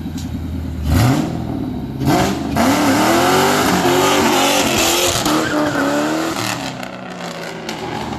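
New Edge Ford Mustang GT's 4.6-litre two-valve V8 revving hard. It climbs about a second in, then is loud from about two seconds in, its pitch rising and falling several times over a strong rushing noise, and it eases off near the end.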